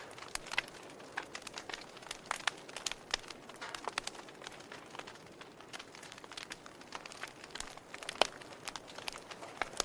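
Wood fire crackling in a fireplace, with irregular sharp pops over a soft hiss and a louder pop about eight seconds in.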